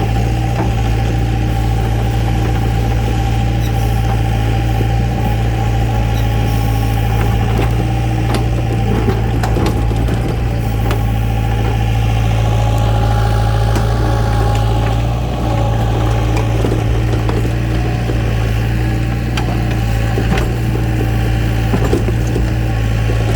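Heavy machine engine running steadily at an even pitch, with faint scattered clicks over it.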